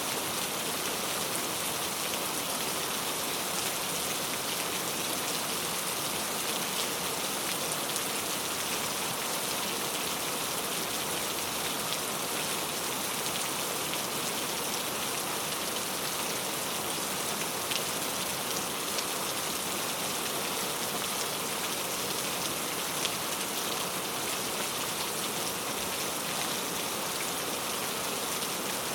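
Steady rainfall: an even hiss of rain with the patter of drops hitting a surface, and no thunder.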